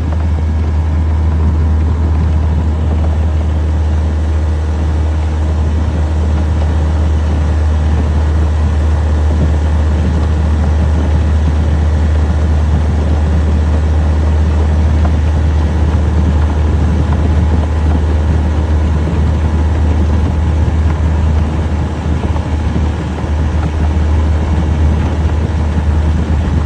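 Old Yamaha outboard motor running steadily under way, pushing a small strip boat along.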